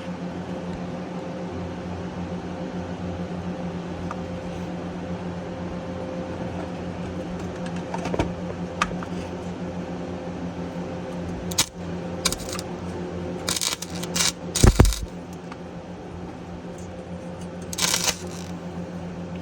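MIG welder tack-welding a rusty exhaust pipe: several short bursts of arc crackle, the longest near the end, over a steady low hum.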